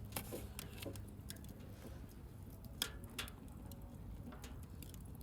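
Wood bonfire crackling: irregular small pops and snaps over a low steady rumble of the burning fire, with a couple of sharper pops about three seconds in.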